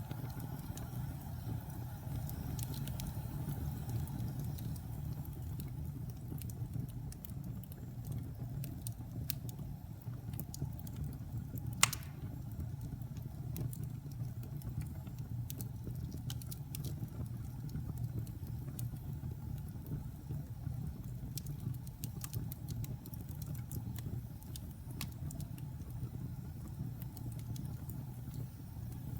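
Wood fire burning in a fireplace: a steady low rumble with scattered sharp crackles, and one loud pop about twelve seconds in.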